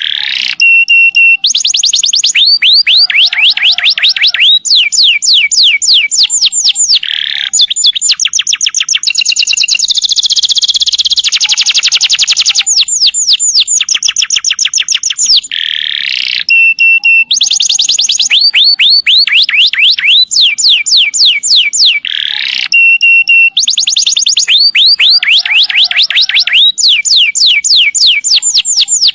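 Domestic canary singing long rolls: fast runs of quick, evenly repeated downward-sweeping notes, broken every few seconds by short pauses and brief steady notes. This is loud, continuous song of the kind used as a master recording to teach other canaries.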